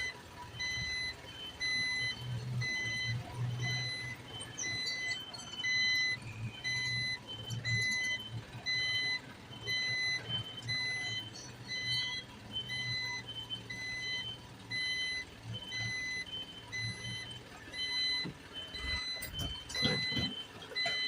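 Garbage truck's reversing alarm beeping steadily, about one beep a second, over the low running of the truck's engine. A sharp knock comes near the end.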